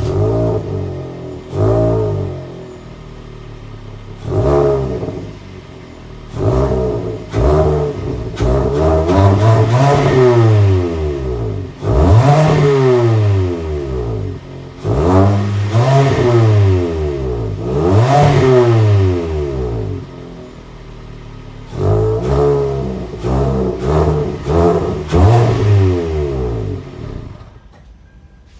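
Exhaust of a third-generation Kia Sportage as the engine is revved in a series of throttle blips, the pitch climbing and falling back to idle again and again. The revving stops about a second before the end.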